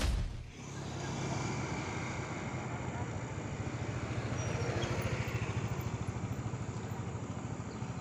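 Motorbike engine running steadily, a low hum with a fast, even flutter.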